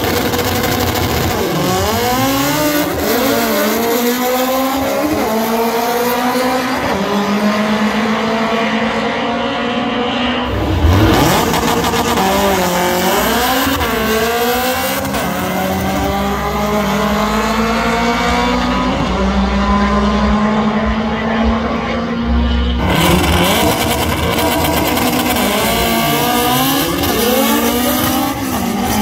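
High-performance drag-racing car engines revving hard, their pitch repeatedly climbing and dropping as they accelerate. The sound changes abruptly twice, about ten and twenty-three seconds in.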